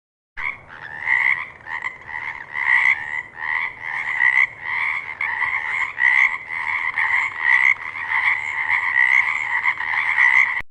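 Frog croaking in a quick repeated series, about two calls a second. It starts just after the beginning and cuts off suddenly at the end.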